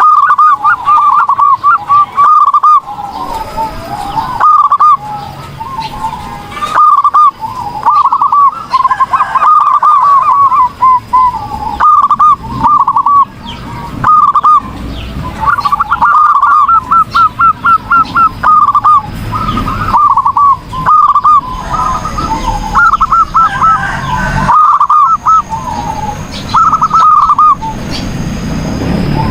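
Zebra dove (perkutut) singing: loud phrases of quick staccato coos repeated one after another with short pauses between them.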